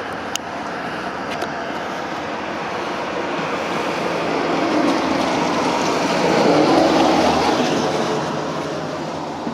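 A road vehicle passing by: steady traffic noise that grows louder, peaks about seven seconds in, then fades away.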